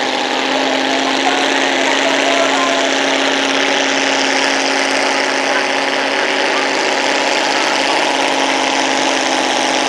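Pro stock gas pulling truck's engine running loud and steady, holding one pitch throughout.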